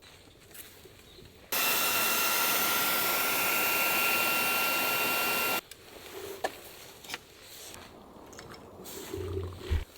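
A small electric air pump runs steadily for about four seconds, a whirring motor with a high whine, starting and stopping abruptly. Faint clicks and knocks follow.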